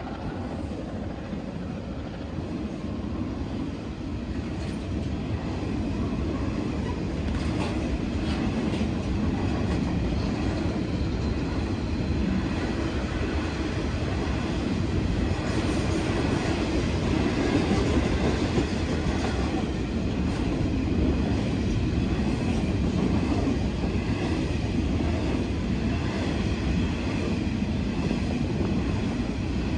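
Freight train of hopper wagons rolling steadily past at close range: a continuous rumble of wheels on the rails that grows louder over the first few seconds and then holds steady.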